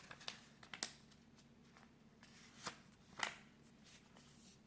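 A sheet of printer paper being handled and folded: a few faint, brief rustles and crinkles, the sharpest about three seconds in.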